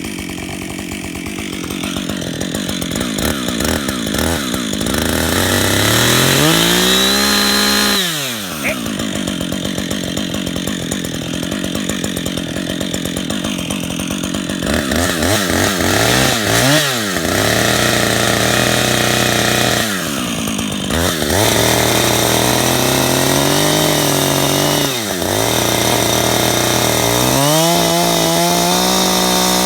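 Two-stroke chainsaw running at high revs while cutting into a hardwood stump. Its engine pitch climbs and falls several times as the throttle is worked and the chain loads up in the cut.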